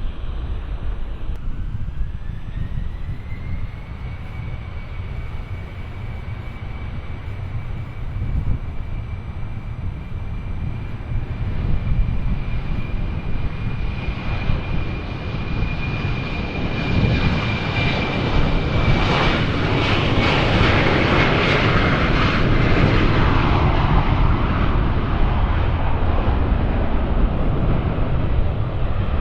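Airliner engines on takeoff: a high turbine whine rises in pitch over the first few seconds and holds steady, then a loud broad rush of engine noise builds and peaks about two-thirds of the way through, over a constant deep rumble.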